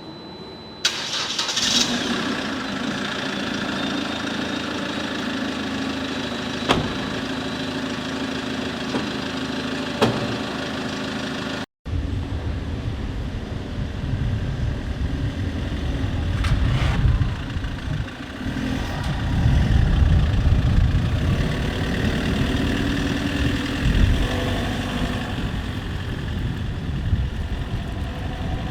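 Car engine starting about a second in and settling into a steady idle, with a couple of sharp clicks. After a break in the audio the vehicle is under way, engine and road rumble rising and falling.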